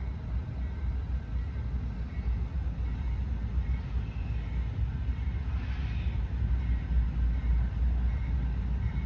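Low, steady rumble of a freight train, growing slightly louder, with no horn sounding.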